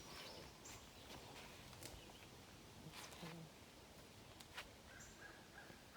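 Near silence: faint outdoor ambience with a few soft clicks, and a short run of faint high notes near the end.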